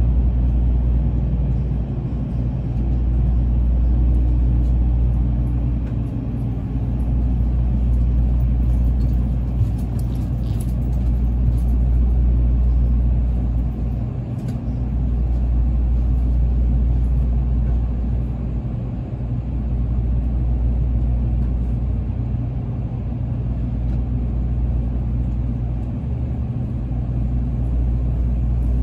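Tokaido Shinkansen train running at speed, heard inside the passenger cabin: a steady, deep rumble of wheels and track noise that swells and eases every few seconds.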